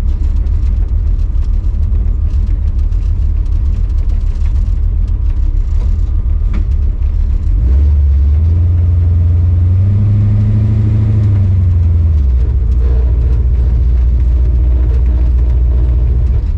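Supercharged Chevy C10 pickup's engine heard from inside the cab while driving, running steadily, then climbing in pitch about halfway through as it accelerates and dropping back a few seconds later.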